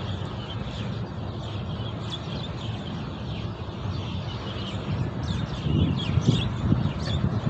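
Small birds chirping: short high calls and quick falling notes scattered throughout, busiest near the end, over a steady low rumble with a few louder low knocks.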